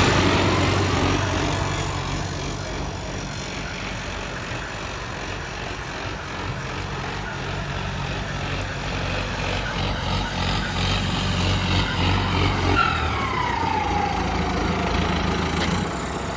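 Modified tractor's diesel engine running, loud at first and easing to a steadier, lower level after about two seconds. Near the end a short whistle falls in pitch over the engine.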